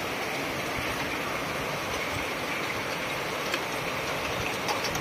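Heavy summer rain pouring steadily, an even hiss with a couple of faint sharper ticks about three and a half seconds in and near the end.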